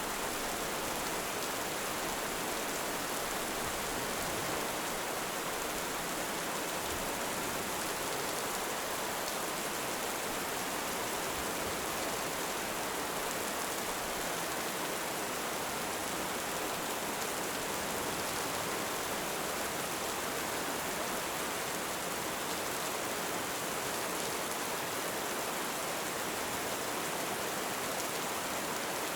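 Heavy rain falling steadily, an even hiss with no breaks or swells.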